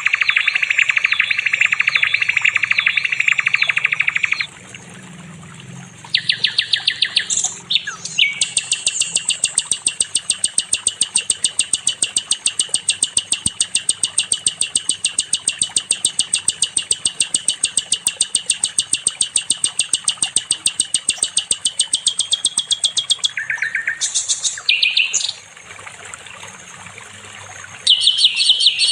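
Sikatan londo singing in long phrases of high, rapid trills: a fast warbling trill, short bursts, then a long, very even stream of rapid high notes lasting about fifteen seconds, before the song picks up again near the end.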